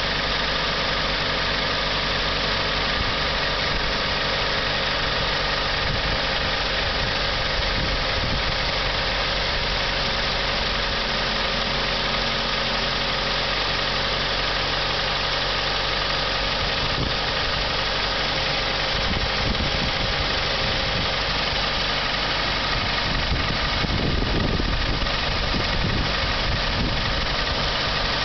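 Toyota Rush engine idling with a steady clicking (kachi-kachi) knock. The dealer takes it for piston slap in the cylinders, while the owner suspects the tappets or the timing chain.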